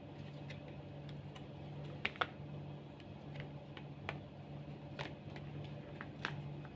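Irregular small clicks and taps of plastic parts being handled and pried while a washing machine's button control panel is taken apart, the two loudest about two seconds in, over a steady low hum.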